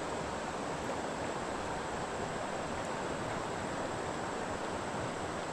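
Steady rushing of fast-flowing creek water in the current, an even hiss without breaks.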